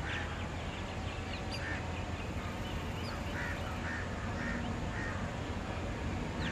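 Birds calling in short, scattered calls, with a few quick rising chirps, over a steady low background rumble.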